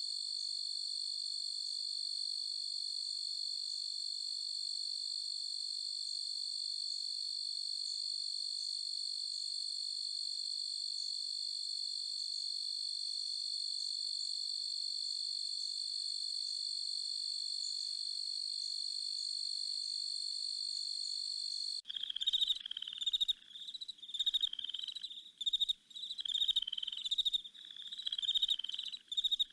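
Crickets trilling in one steady, unbroken high chorus. About 22 seconds in this cuts off abruptly and frogs take over, calling loudly in short falling calls about once a second.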